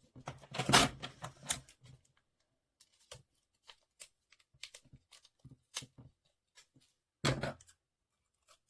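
Hands working paper and adhesive tape on a paper model airplane: scattered light clicks and taps, with a louder rustling burst about a second in and another near the end.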